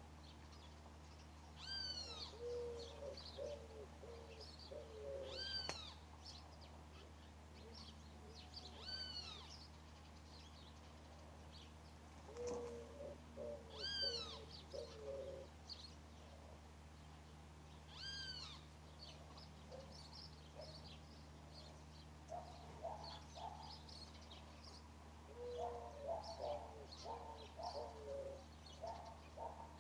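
Birds calling. A high, arched call recurs every few seconds, and between these come quick runs of four or five lower, shorter notes, over a faint steady low hum.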